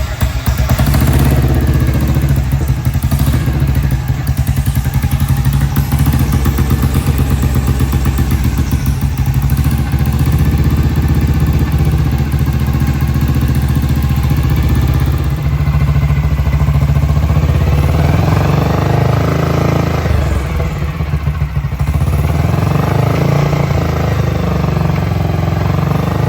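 BSA Gold Star DB34's 500 cc single-cylinder engine running, with a dense, even firing beat. In the second half the revs rise and fall.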